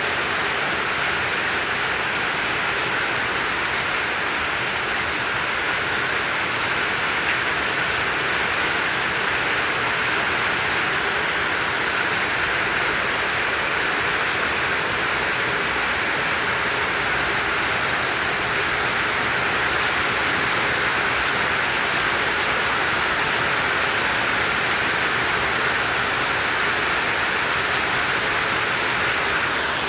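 Heavy tropical rain falling steadily, an even hiss of downpour with no breaks.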